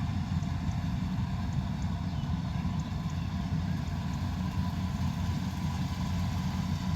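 Kubota combine harvester's diesel engine running steadily, a low, even machine drone with a faint whine above it.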